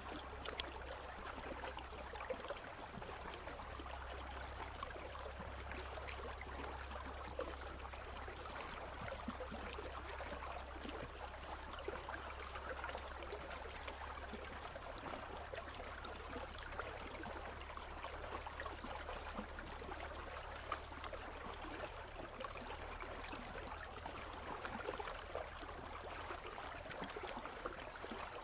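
A country stream flowing steadily over stones, an even babbling water sound with a low steady rumble beneath it.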